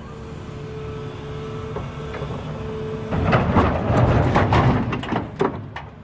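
Volvo EC380EL excavator's diesel engine running with a steady hydraulic whine, then about three seconds in a loud rumbling clatter of rocks tumbling from the bucket into the truck's dump body for about two seconds.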